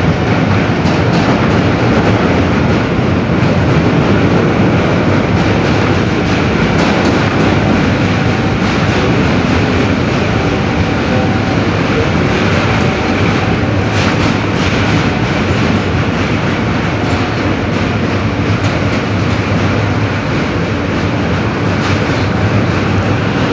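Inside an R160B New York City subway car running at speed: steady wheel and rail rumble with the clickety-clack of the wheels over rail joints, and a short run of sharp clicks about halfway through.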